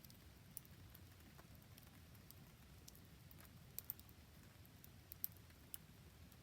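Campfire crackling faintly, with a few sharp pops: one near the start, a quick pair a little past halfway, and more near the end. Under it runs a soft, steady patter of rain.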